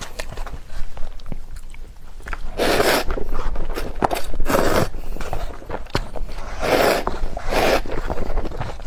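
Close-miked eating of Buldak spicy instant noodles: wet mouth clicks and chewing, with about four longer slurps of noodles.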